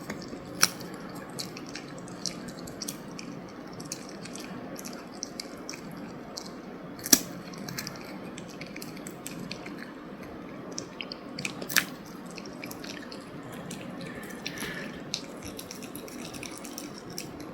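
Tableware clicking and clinking during a meal, with three louder clinks about a second in, about seven seconds in and near twelve seconds, over a steady low room hum.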